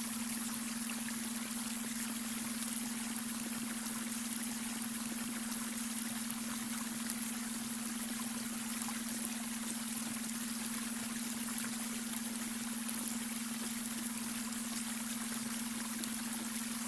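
Babbling brook running steadily, with a constant low hum-like tone underneath: the beta brainwave tone mixed into the water.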